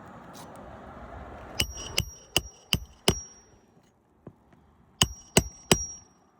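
Hammer driving roofing nails to fasten a 3-tab asphalt shingle: five sharp ringing strikes in quick succession, a pause, then three more near the end.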